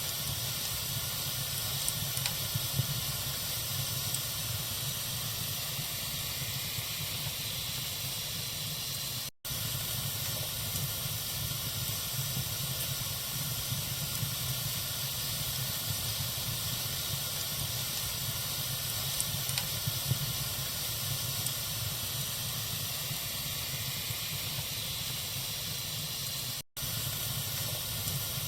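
A bonfire burning with a steady hiss and occasional faint crackles. The sound cuts out for an instant twice, about nine seconds in and near the end.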